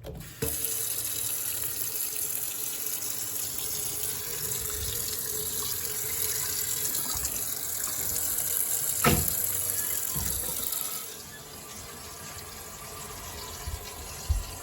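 Faucet running water into a sink to test its drain. The flow is a steady wash that drops to a quieter level about eleven seconds in. There is a sharp knock about nine seconds in and another near the end.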